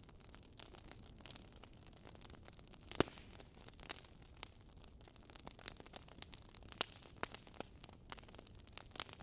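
Wood fire crackling: irregular small snaps and pops of burning logs over a faint hiss, with one louder pop about three seconds in.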